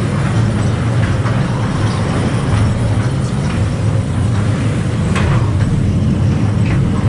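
Ghost train ride vehicle running with a steady low rumble, with a few faint knocks, the clearest about five seconds in.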